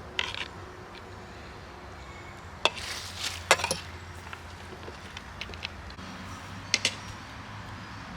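Metal utensils clinking against cookware a few times, with a cluster of clinks about three seconds in and another near the end, over a steady low rumble.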